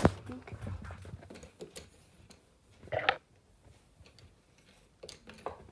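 Faint rustling and small clicks of someone rummaging for a pink colouring pencil, with one brief louder clatter about three seconds in.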